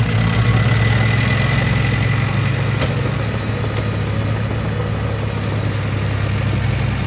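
A dump truck's engine running steadily, a low, even drone with a faint high whine over it.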